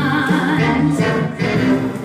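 Vocal duo singing a song in harmony, holding long sung notes with music behind them.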